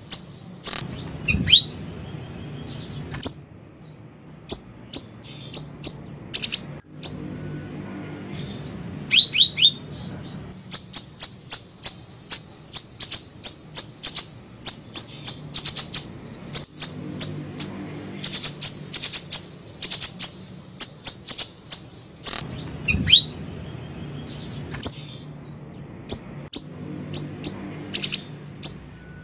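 Small siri-siri bird singing: rapid runs of short, sharp, very high chirps, broken by brief pauses and a few lower falling notes. It is a masteran lure recording of the song.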